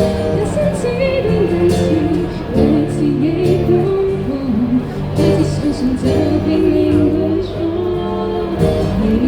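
A band playing live pop music, with a singer over sustained bass notes.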